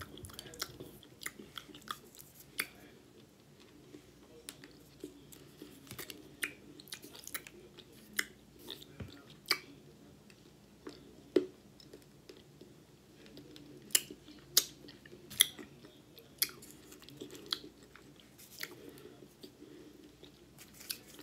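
A person chewing food close to the microphone, with irregular crunching clicks.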